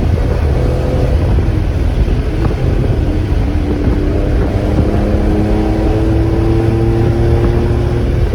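The twin-turbocharged air-cooled flat-six of a 1995 Porsche 911 Carrera running steadily under a heavy low rumble, its pitch climbing slowly over the last five seconds as it pulls.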